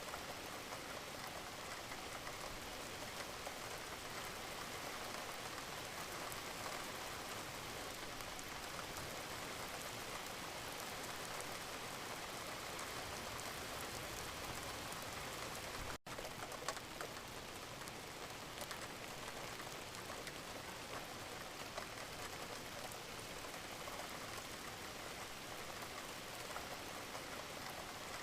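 Steady rain falling: an even hiss with scattered drop ticks, broken by a momentary dropout a little past halfway.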